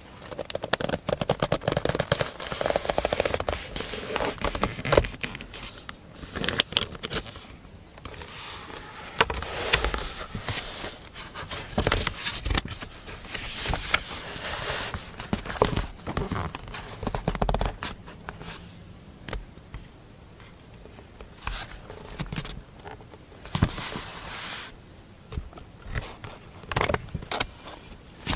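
Close-miked paper and stationery handling for scrapbook journaling: paper rustling, crinkling and scraping, with many small irregular clicks and taps.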